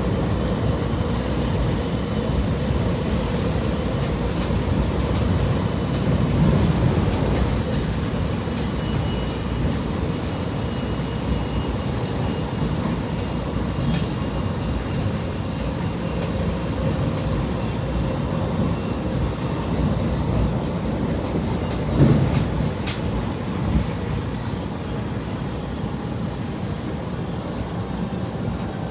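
Steady rumble of a moving passenger train heard from inside the car, with a few sharp knocks, the loudest about 22 seconds in and another shortly after.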